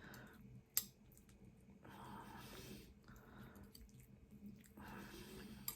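Faint close-up chewing of soft food, with a sharp click, like cutlery on a plate, about a second in and another near the end.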